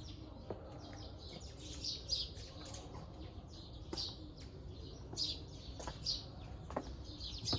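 Small birds chirping, a steady scatter of many short, high chirps.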